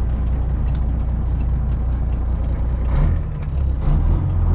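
Semi truck's diesel engine working to get the truck rolling from a stop on a snowy road: a steady low drone whose note changes and surges about three seconds in.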